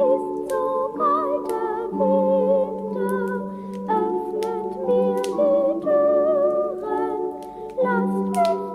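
Christmas music: several voices singing or humming held, wavering notes in a soft choral style, with sharp crackles from the fireplace fire scattered through it.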